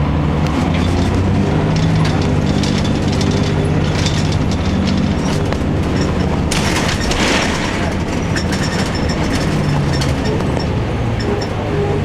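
Inside a 2002 Blue Bird CS transit bus under way: its Cummins ISC six-cylinder diesel running steadily, with rattles and clatter from the cabin. A brief hiss about six and a half seconds in.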